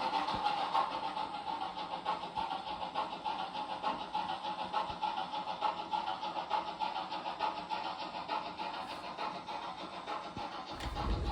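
Sound decoder in a Roco H0 model of a class 56 steam locomotive playing steam-engine running sound through its small onboard speaker: an even, rapid chuffing. A low rumble comes in near the end.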